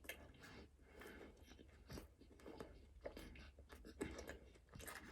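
Faint chewing of a fried chicken strip burger: soft, irregular mouth clicks and small crunches, close to the microphone.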